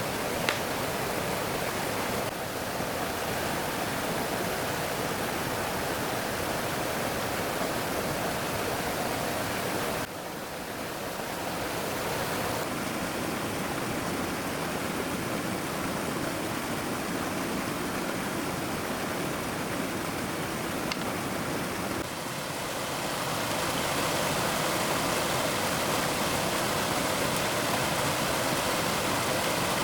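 Steady rushing of a swollen stream. The sound changes abruptly about 2, 10 and 22 seconds in, where the shots change.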